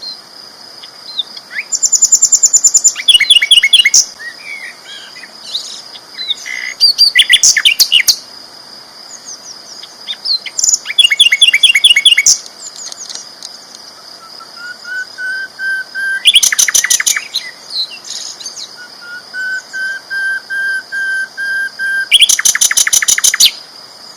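Sikatan londo flycatcher singing: loud bursts of fast, rattling trills, five times, with quieter runs of short rising whistled notes between them. A steady high-pitched tone runs underneath.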